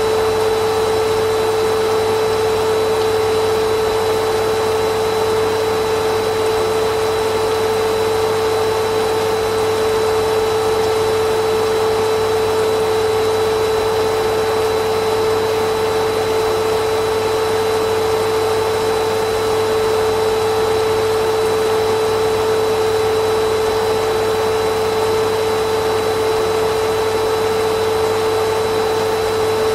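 Vacuum cleaner running steadily: an even motor whine with a strong single hum over a rush of air, unchanging throughout.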